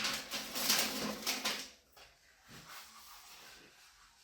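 Vinyl peel-and-stick paper rustling and crinkling as it is rolled onto a tube, busy for the first couple of seconds, then softer, scattered handling noise.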